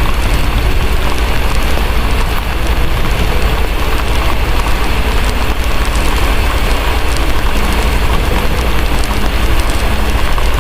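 Steady heavy rain with a constant deep rumble underneath, and a fireplace crackling with faint scattered pops, layered as a continuous ambience mix.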